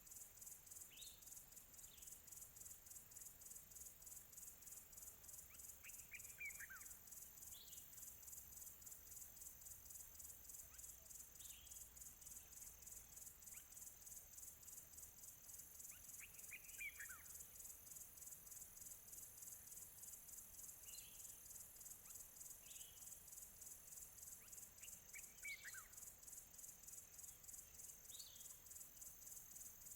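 Nature ambience: a steady, fast-pulsing high-pitched chorus of insects, with scattered short bird chirps and a bird's falling song phrase repeated three times, roughly every nine to ten seconds.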